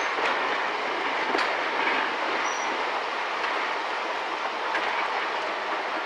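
Steady running noise of a slow-moving train's wheels on the rails, heard from on board, with a few light clicks.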